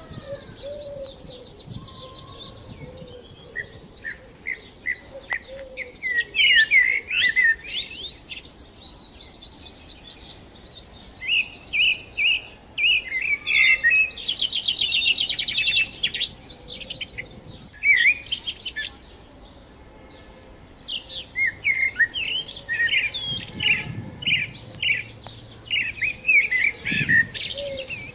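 Small birds chirping and twittering in short, quick phrases, with a rapid trill about halfway through.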